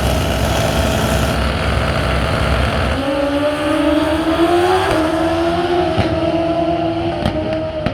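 Pro Street drag motorcycles at full throttle on a quarter-mile pass. The engine note climbs about three seconds in, then holds steady.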